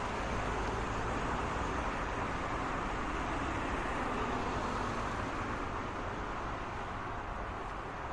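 Road traffic: a steady wash of tyre and engine noise from passing cars, easing slightly near the end.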